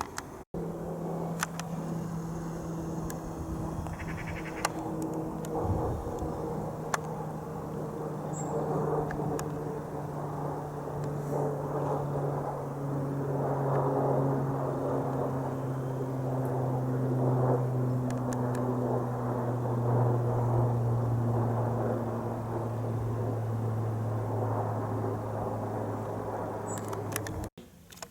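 Beechcraft King Air C90 twin turboprop flying low overhead. Its propeller drone slowly falls in pitch as it passes and is loudest about two-thirds of the way through. The sound cuts off abruptly near the end.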